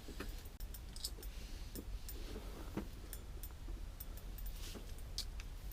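Fishing reel clicking irregularly while a lake trout is fought through an ice hole, over a steady low rumble.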